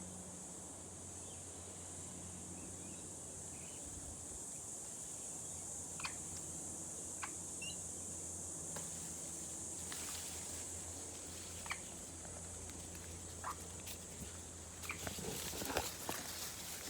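Backyard outdoor ambience: a steady high-pitched drone with a low hum beneath it. A few sharp isolated clicks come through the middle, and clicking and rustling grow busier near the end.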